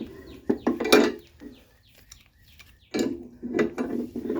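Metal tools and strut parts clinking and knocking as they are handled: a few sharp clinks about a second in, a quiet stretch, then a run of clanks near the end.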